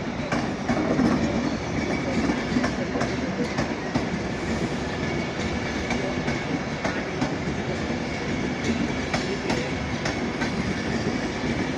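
Class 390 Pendolino electric train running in alongside the platform: a steady rumble with a faint steady whine, and the wheels clicking over rail joints many times.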